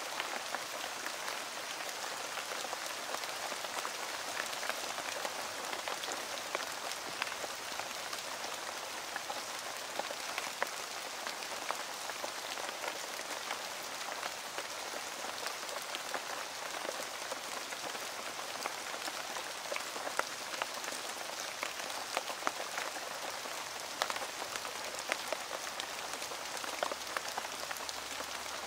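Heavy rain falling on foliage: a steady hiss dotted throughout with many sharp individual drop hits.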